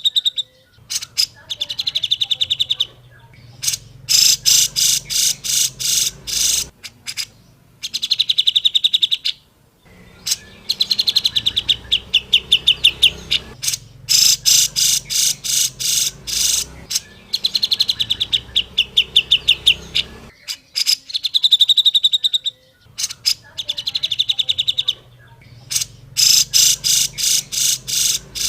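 Cucak jenggot (grey-cheeked bulbul) singing: phrases of rapid, trilled, chattering notes, each two to three seconds long, with short pauses between them.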